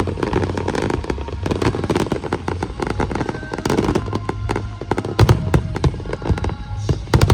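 Aerial fireworks bursting in quick succession, a rapid crackle of many small bangs with heavier booms about five seconds in and again near the end.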